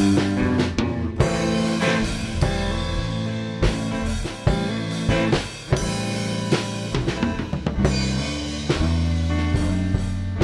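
A rock band playing an instrumental passage with no vocals: a drum kit with kick, snare and rimshot hits over a steady electric bass line.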